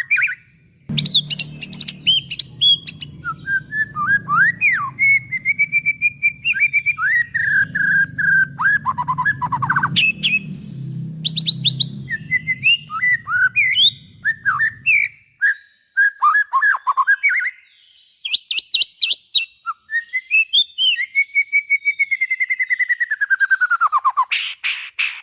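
White-rumped shama singing a long, varied song of loud whistled phrases, rising and falling glides, rapid trills and sharp clicking notes, with brief pauses between phrases. A low hum runs underneath and stops about fifteen seconds in.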